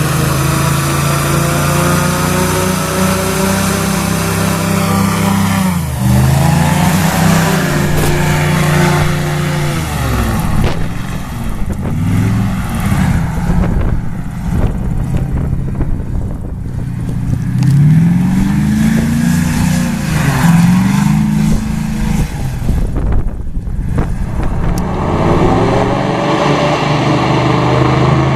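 Airboat's Toyota 3UR 5.7-litre V8 driving a six-blade air propeller, running under way. Its engine speed drops and climbs again several times, with steady running in between.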